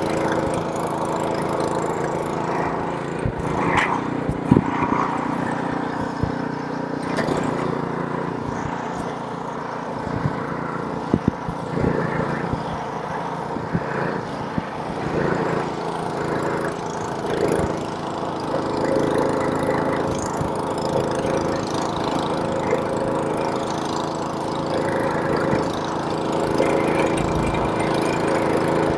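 Small-engine gas snowblower running steadily at working speed, with a few short knocks here and there.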